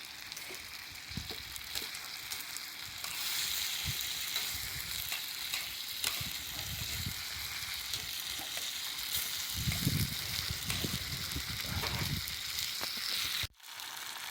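Steady sizzling hiss of food cooking over a campfire, growing louder about three seconds in, with a few soft low thumps around ten seconds in. The sound drops out abruptly for a moment near the end.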